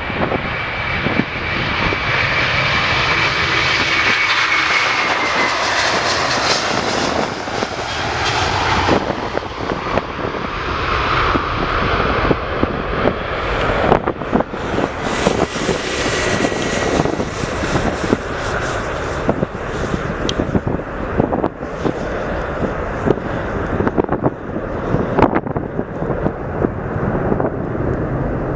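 Jet airliner engines passing: a steady spread of engine noise with a high fan whine that drops in pitch about five seconds in, then slowly fades. Wind gusts buffet the microphone throughout.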